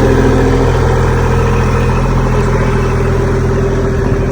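A vehicle engine running steadily at constant speed.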